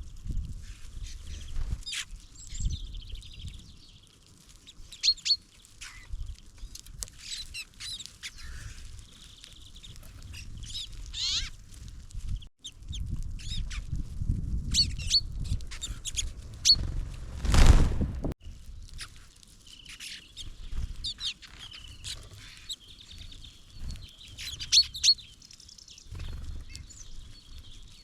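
Small songbirds chirping and calling, with many short, high chirps throughout over a low rumble. Just past halfway, a loud rush of noise lasts about a second.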